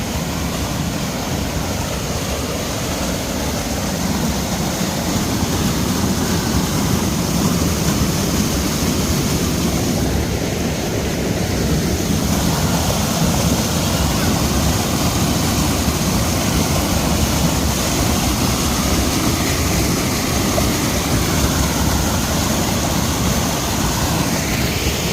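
Mountain stream rushing over rocks: a steady, loud water noise.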